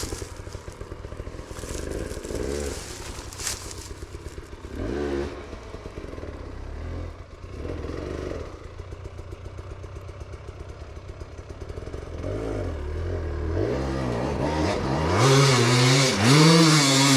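Dirt bike engine running with a few short revs. From about twelve seconds in it revs hard and grows louder, its pitch rising and falling repeatedly as the throttle is worked, loudest near the end.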